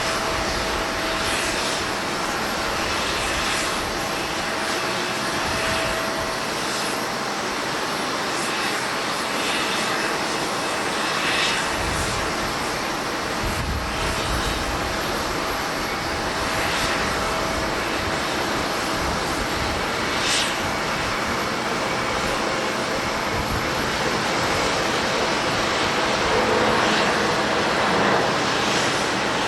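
Jet airliner's engines running steadily with a faint held whine, with wind buffeting the microphone in low gusts.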